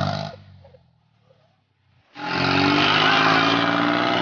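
A short sound fades out, and after about a second of near silence a diesel tractor engine cuts in abruptly, running hard at high revs with its pitch rising slightly.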